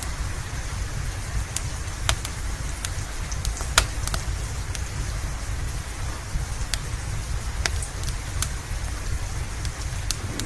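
Steady rain with a constant low rumble underneath, and the sharp pops of a crackling wood fire scattered throughout, the loudest pop about four seconds in.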